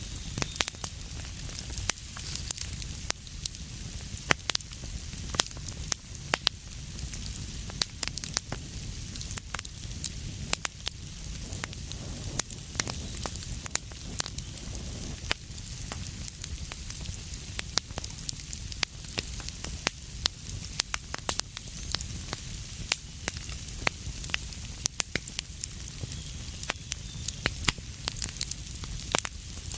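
Wood fire crackling in a fireplace: frequent sharp pops and snaps, several a second, over a steady low rumble and hiss.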